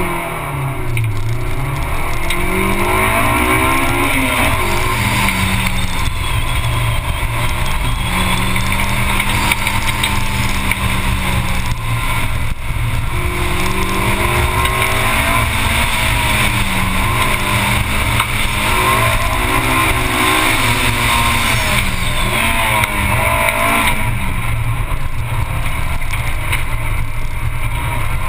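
Honda S2000's four-cylinder engine pulling hard off the start, then revving up and down through the run as it accelerates, lifts and brakes between cones. Underneath is a steady rush of wind and road noise.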